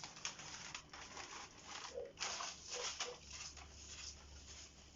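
Crumpled newspaper rustling in irregular bursts as it is handled and rubbed over a fireplace's glass door, loudest about two seconds in.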